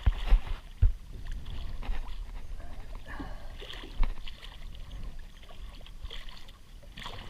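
Wind rumbling on the microphone over water sloshing alongside the boat, with a few dull knocks, the loudest about four seconds in.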